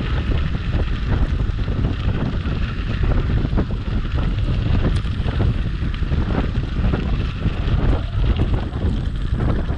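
Wind buffeting the microphone of a moving bicycle rider, a steady low rumble, with the rolling crackle of bicycle tyres on the trail.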